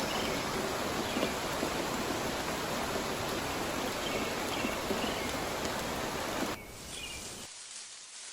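Rainforest ambience: a steady rushing noise like rain or running water, with faint short bird chirps over it. About six and a half seconds in, the rushing noise cuts off abruptly, leaving quieter outdoor sound with a few faint chirps.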